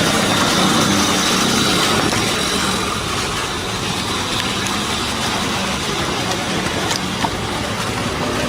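Steady engine-like running noise, with a few faint clicks about seven seconds in.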